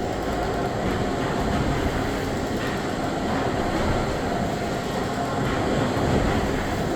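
1885 Gimson steam beam engine running steadily, a continuous mechanical rumble and clatter.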